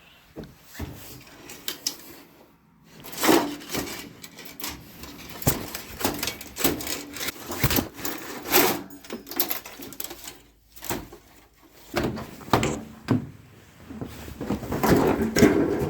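Irregular knocks, rubs and clatter of objects being handled, with no motor running.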